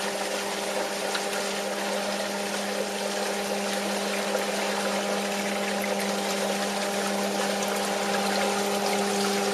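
Basement sump pump running with a steady hum while water pours into the sump pit from the drain pipes. The pump has just been shaken loose; it keeps sticking and stopping.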